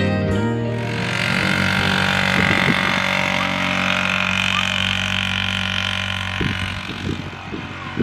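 A vehicle engine running steadily, with a hissing rush over it.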